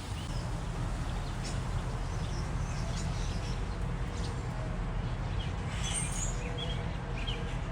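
Small birds chirping now and then, short high calls scattered through, over a steady low background rumble.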